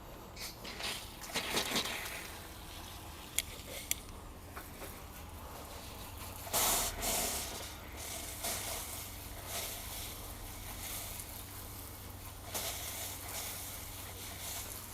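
Water splashing and hissing over firewood as it is soaked, coming in uneven surges, with two sharp clicks between three and four seconds in.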